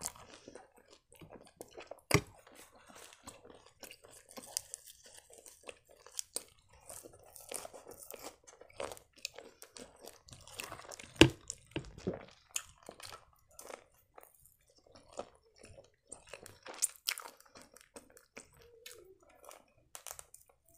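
Close-miked chewing and crunching of a deep-fried cheburek, the crisp pastry crust crackling between the teeth with wet mouth sounds. Louder crunches stand out about 2 seconds in and again near 11 seconds.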